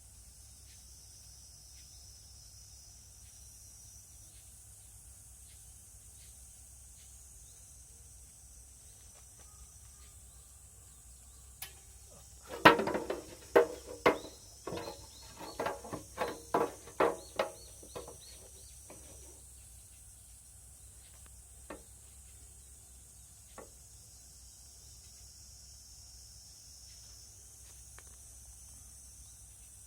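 Insects trilling steadily, with a burst of sharp knocks and clanks in the middle, the loudest first, followed by a run of about five evenly spaced knocks half a second apart, then a few faint single taps.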